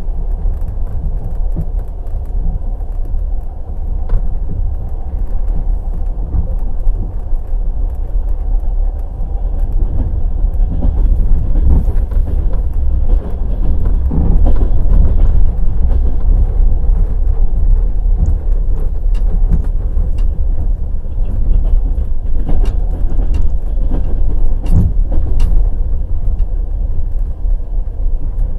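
Passenger train wheels running on the rails: a loud, steady low rumble with scattered sharp clacks, some in small clusters, as the wheels pass over rail joints.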